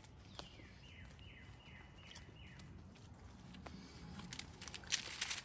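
A bird sings in the background, a series of about six short falling whistled notes, evenly spaced, over the first few seconds. Near the end comes louder close-up crackling and rustling.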